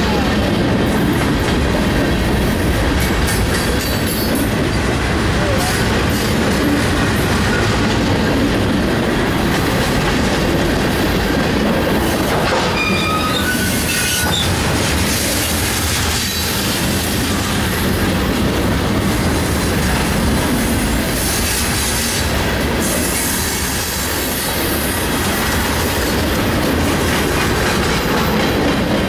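Union Pacific freight train's cars rolling past close by: a steady rumble and rattle of steel wheels over the rail joints. A brief high wheel squeal comes about halfway through.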